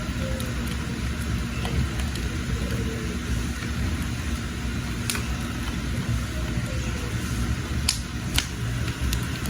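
Wood cooking fire burning with a steady low rumble and occasional sharp crackles and pops, three of them in the second half. Faint birds chirp in the background.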